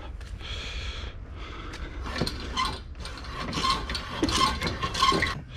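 Metal clinking and ratcheting while an engine hangs on a hoist over the engine bay, with several short ringing metallic clinks in the second half.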